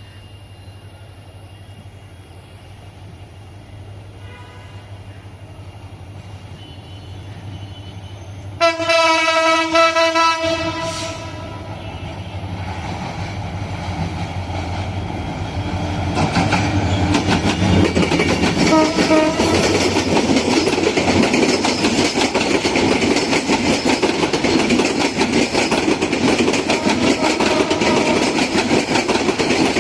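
Diesel locomotive horn sounding one loud blast of about two seconds, after fainter distant toots. A train then runs past with a steady rumble and clatter of wheels on rail that grows louder and stays loud.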